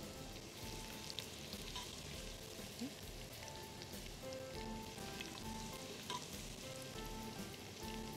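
Grated carrots frying in ghee in a pot, sizzling softly, with occasional light scrapes and clicks of a metal slotted spoon against the pot as they are lifted out.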